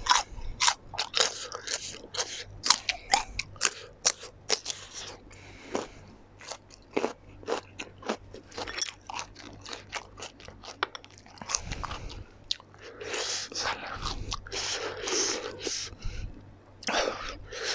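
Close-miked chewing of crisp raw cucumber: a quick run of sharp, wet crunches that thins out around the middle. Denser stretches of chewing noise come later.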